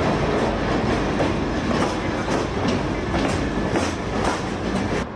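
Train rolling past with a steady rumble and wheels clicking over rail joints in an uneven rhythm; it cuts off abruptly at the end.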